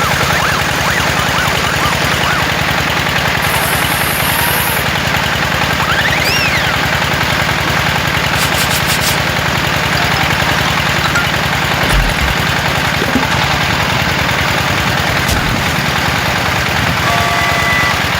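An engine running steadily at idle, with a fast, even pulsing beat.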